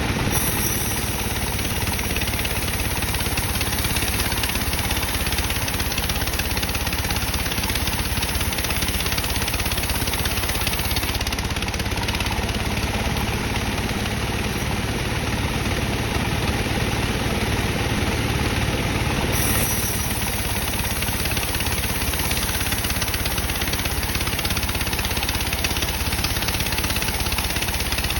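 Sawmill bandsaw machine running steadily while sawing dry teak. A faint high hiss comes in twice, each time for several seconds.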